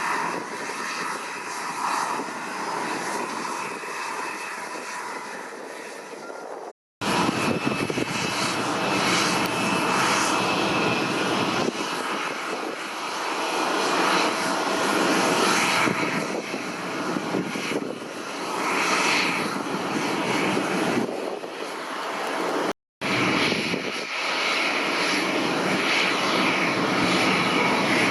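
Boeing 787-8's Rolls-Royce Trent 1000 jet engines running at low power as the airliner taxis, a steady whine and rush. The sound cuts out abruptly for a moment twice, about seven seconds in and again near twenty-three seconds.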